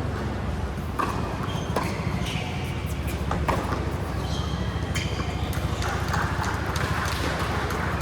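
Rally in a tennis-style racket game: irregular sharp knocks of the racket striking the ball and the ball bouncing, several in a row about a second apart, over a steady low hum.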